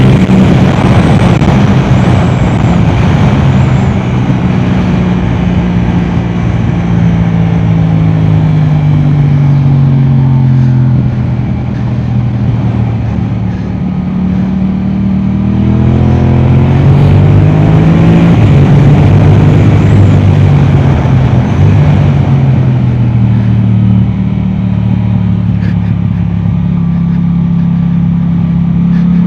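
Yamaha R7's parallel-twin engine through an Akrapovic exhaust, at speed on track. The engine note falls as the bike slows about halfway through, then rises again in steps as it accelerates and shifts up.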